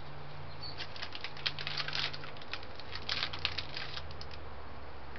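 Quick irregular clicks, taps and rattles from a bird taking peanuts in the shell from a hand at a balcony railing, with two denser flurries about two and three seconds in.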